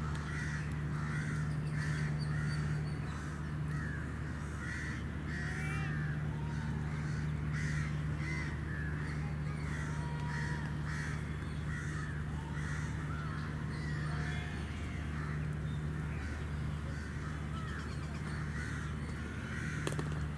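Birds calling again and again, short harsh calls over a steady low hum. Near the end comes a single sharp knock, fitting a cricket bat striking the ball.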